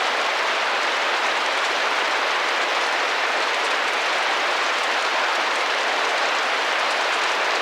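Steady rain tapping against a window pane, an even hiss of many small drops with no change in level.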